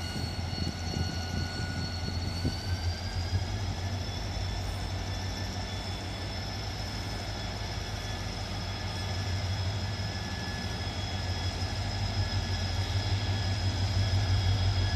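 A train running at a station: a steady low engine hum with thin whining tones that rise slightly a few seconds in, growing louder toward the end.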